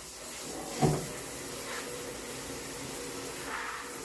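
A single knock about a second in, like a cupboard door shutting, over a steady household hum.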